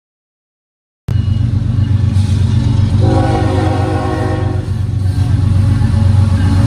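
Union Pacific diesel locomotive approaching at speed with a loud, steady low engine rumble, starting abruptly about a second in. Its air horn sounds a chord for about two seconds near the middle.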